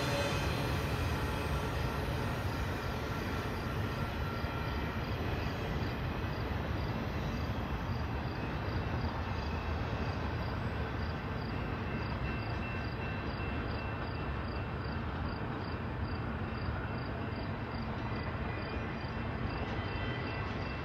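Train running past with a steady low rumble that eases slightly as it moves away. A faint, regular high ticking sounds about twice a second from about ten seconds in.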